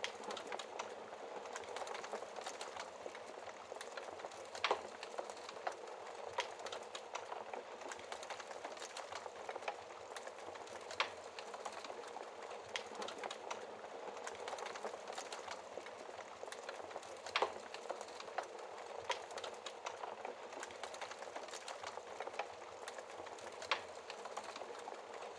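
Wood fire burning in a fireplace: a steady soft hiss with irregular crackles and pops, a few sharper ones standing out.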